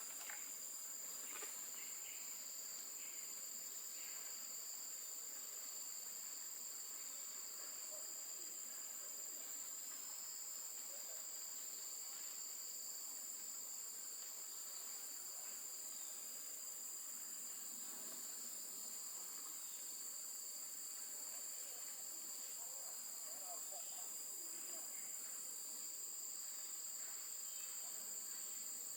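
Steady chorus of forest insects, several continuous high-pitched buzzing tones at different pitches layered together, one of the highest dropping out near the end.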